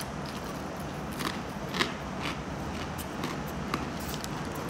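Crispy pork back-fat chicharon crunching as it is chewed: irregular sharp crackles.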